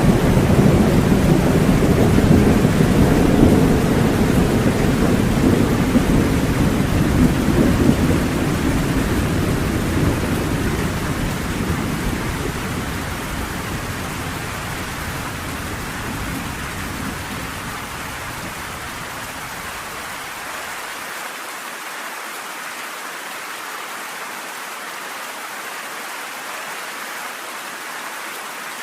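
Steady heavy rain with a long rolling rumble of thunder that is loudest at the start and dies away over about twenty seconds, leaving only the rain.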